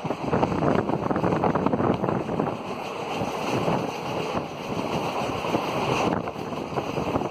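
Passenger train running at speed, heard from aboard: a dense clatter of wheels on the rails, with wind buffeting the microphone.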